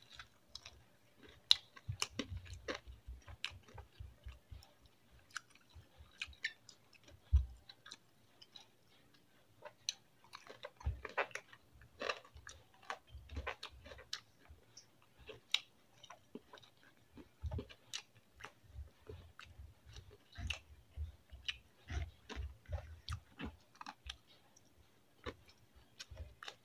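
Close-up chewing and mouth smacking while eating fried chicken, rice and pancit canton noodles: an irregular run of short wet clicks and smacks with brief pauses.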